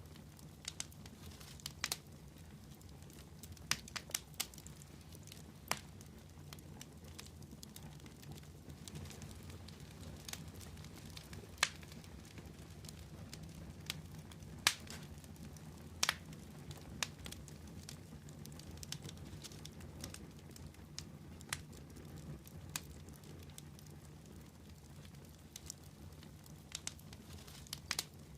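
Wood fire crackling: sharp irregular pops and snaps over a steady low rumble of burning.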